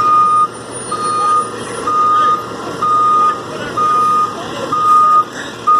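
Garbage truck's reversing alarm beeping, one steady single-pitched beep of about half a second roughly once a second, with the truck's engine running underneath: the truck is backing up.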